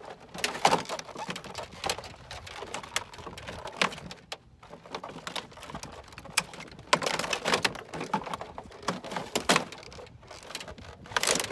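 Irregular clicks, crackles and scrapes of a car's inside door trim panel being pried off, with plastic clips and trim working loose in bunches.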